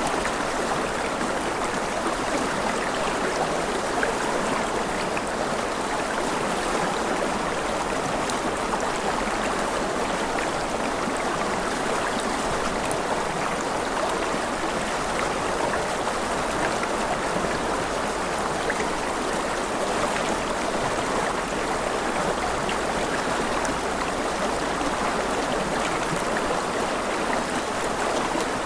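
Steady, unbroken sound of running water flowing in a stream.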